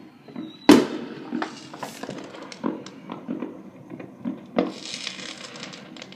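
Consumer fireworks going off: a loud bang about a second in, then scattered pops and bangs, with a burst of crackling about five seconds in.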